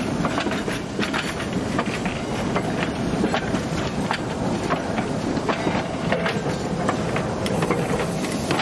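A train rolling past: a steady rumble of wheels on rails with many sharp clicks as the wheels run over the track joints.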